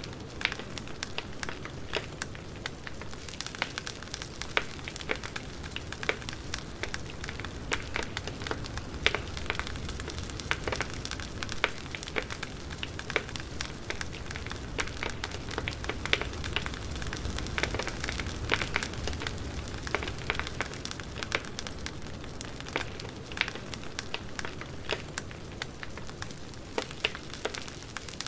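Wood campfire crackling and popping: irregular sharp snaps over a steady low rumble of burning.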